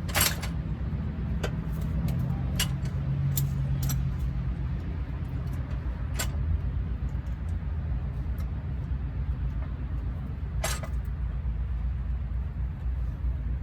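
A few sharp metal clinks and clanks at irregular moments, as of tools and parts being handled, over a steady low hum like a running engine or motor.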